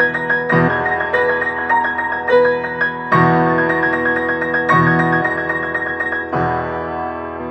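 Solo piano playing a quick, repeated high figure over low chords struck about every second and a half. The last chord, near the end, is left ringing and fading.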